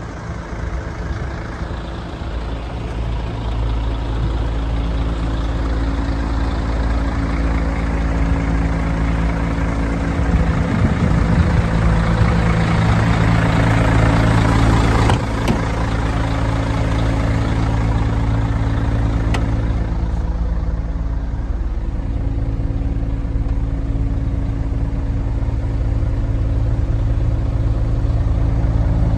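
Diesel engine running steadily at idle. Its pitch shifts about a third of the way in and its level steps down about halfway through.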